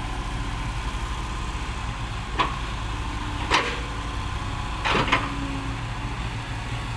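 Dump truck engines running steadily with a low rumble. Several short sharp knocks come over it, about two and a half, three and a half and five seconds in.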